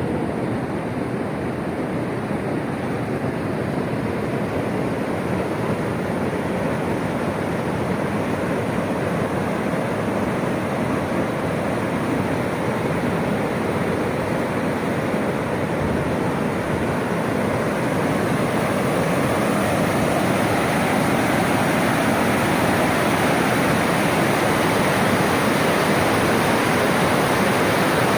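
Floodwater rushing in a swollen stream: a steady rushing noise that grows a little louder and brighter over the last third.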